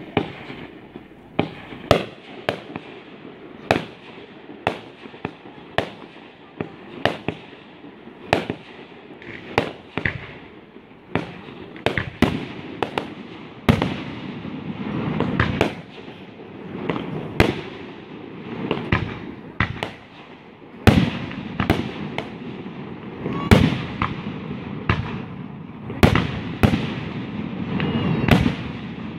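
Fireworks display: aerial shells bursting in a steady run of sharp bangs, roughly one a second and sometimes in quick pairs, over a continuous wash of lower noise between them.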